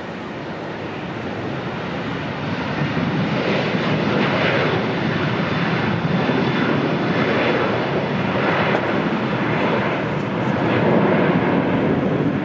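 Jet aircraft engines running at an airport, a steady rushing noise that grows louder about two seconds in and holds.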